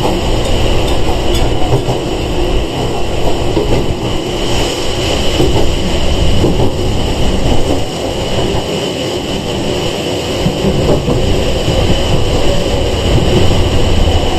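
Sangi Railway 101 series electric train running along the line, heard from inside the car: a steady rumble of wheels on rail with a constant high tone over it.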